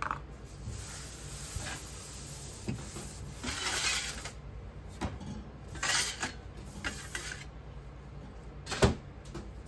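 Sand-casting moulding work being handled: rustling and scraping of casting sand and a moulding flask in bursts, with one sharp knock near the end, over a faint steady hum.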